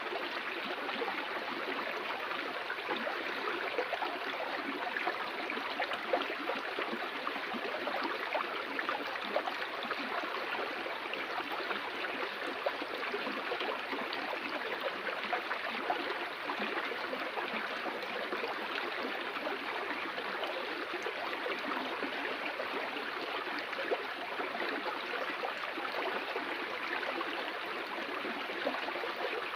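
Flowing stream water, a steady rushing and babbling with small splashes throughout.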